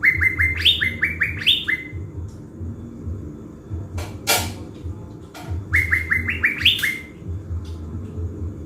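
Caged thanh lam songbird singing two phrases of rapid, ringing notes that climb in steps, about five seconds apart, with a few sharp clicks between them. It is in full song, in shape to serve as a decoy to lure wild birds.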